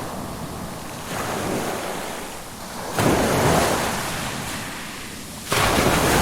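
Ocean waves breaking and washing in, surging three times: gently about a second in, then more sharply about three seconds and five and a half seconds in, each surge fading as the water draws back.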